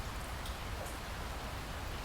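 Steady rain falling, an even hiss with a few separate drops ticking, over a low rumble.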